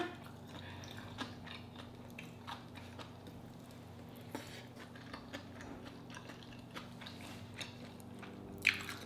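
A person chewing a hand-fed mouthful of soft rice in coconut sauce, with scattered small wet mouth clicks over a steady low background hum.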